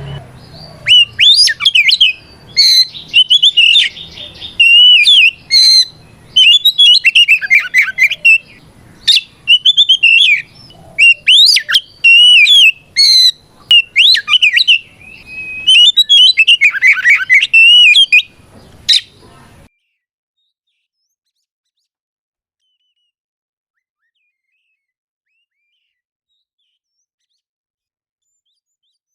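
Male oriental magpie-robin (kacer) singing a loud, full-voiced challenge song: bursts of varied whistled phrases with fast up-and-down glides, the kind of song given to call out a rival. About twenty seconds in the song cuts off suddenly into silence.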